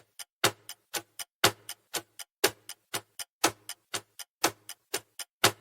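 Countdown timer sound effect ticking like a clock, a louder tick about once a second with lighter ticks in between.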